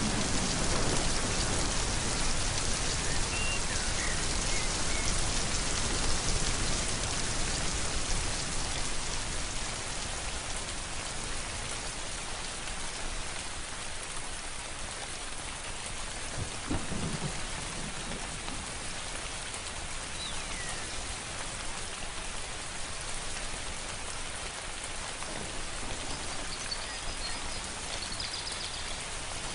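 Steady rain falling, with a low rumble of thunder over the first several seconds that then fades. A few faint bird chirps sound through the rain.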